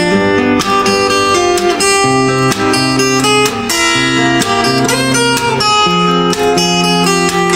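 Acoustic guitar playing a slow melody, plucked notes ringing over changing chords.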